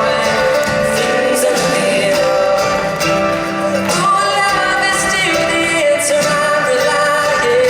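A live pop-folk band playing, with acoustic instruments and singing carrying held notes.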